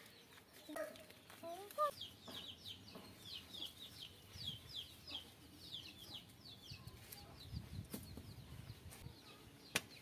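Bird calls: a few lower calls in the first two seconds, then a long run of short, high chirps, each falling in pitch, several a second. A single sharp knock near the end.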